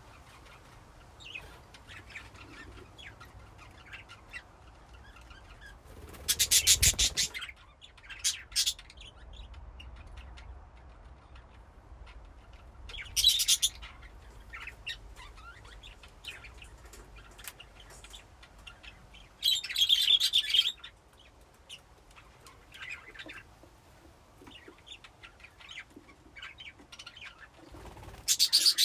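A colony of budgies chirping and chattering softly, with several louder bursts of a second or two scattered through.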